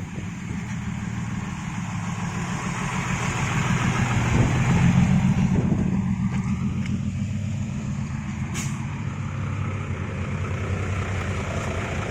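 Isuzu Deca dump truck's diesel engine running, growing louder about four to six seconds in, then settling. A short hiss of air about eight and a half seconds in.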